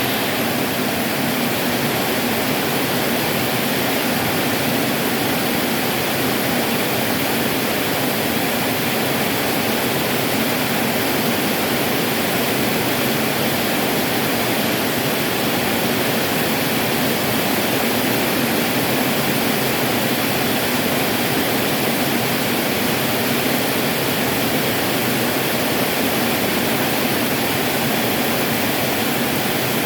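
Heavy tropical rain pouring down, a loud, steady, unbroken hiss.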